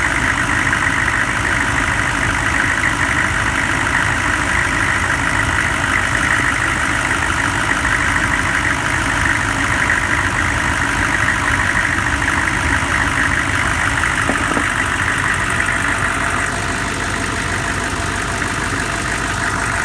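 A 6.5-litre engine idling steadily after a cold start, easing slightly in level about three-quarters of the way through.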